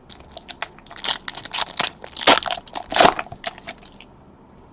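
Crinkling and crackling of a foil trading-card pack wrapper being torn open and crumpled, a quick run of crackles with two louder crunches about two and three seconds in.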